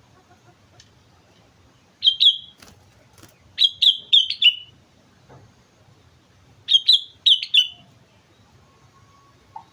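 Sooty-headed bulbul (kutilang) singing: three short phrases of loud, sharp notes, the first of two notes and the next two of four each, with pauses of a second or more between them.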